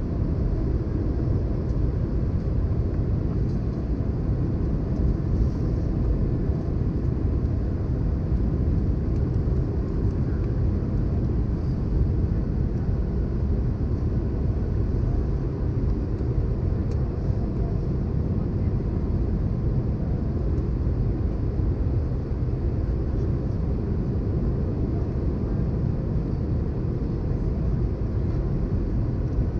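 Steady low cabin rumble of an Airbus A320-214 on its approach: engine and airflow noise heard inside the cabin at a window seat.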